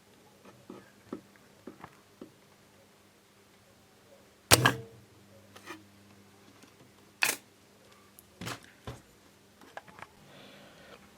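Electromechanical desoldering pump clicking as it fires to suck solder from an IC's pins. Sharp single clicks come a few seconds apart, the loudest about halfway through, with faint ticks of handling in between.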